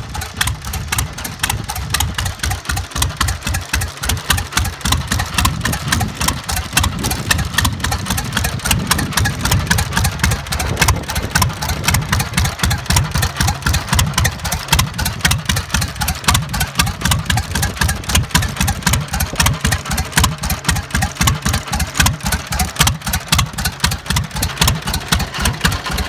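Tractor engine idling steadily, with an even, regular pulsing beat of firing strokes.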